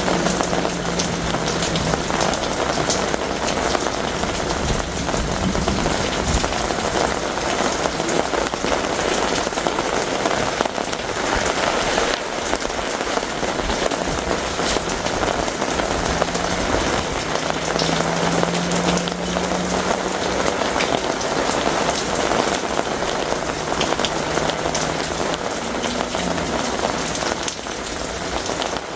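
Heavy rain falling steadily: a dense patter of drops hitting surfaces. A faint low hum comes and goes beneath it.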